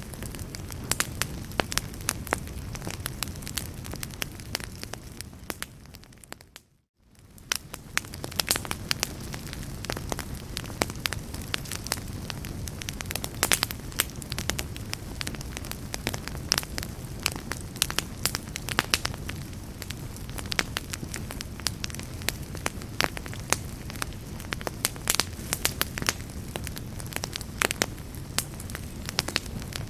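Wood fire crackling, with dense sharp pops over a steady low rumble. The sound fades briefly to silence and back in about seven seconds in.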